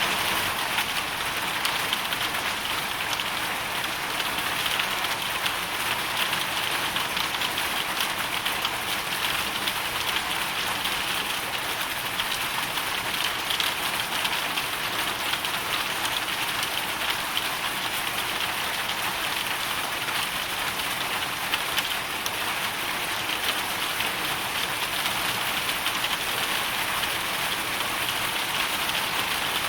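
Hailstorm: hail and rain falling as a dense, steady patter of countless small impacts.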